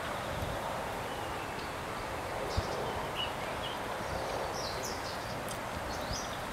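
Short, high, downslurred chirps of small birds, a few scattered through the second half, over a steady hiss of outdoor background noise. A single brief thump about two and a half seconds in.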